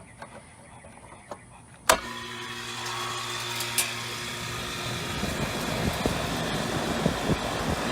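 York air-conditioning condensing unit starting up on a newly fitted capacitor: a sharp click about two seconds in, then the steady hum of the compressor and the rushing air of the condenser fan building up over the next few seconds and running on.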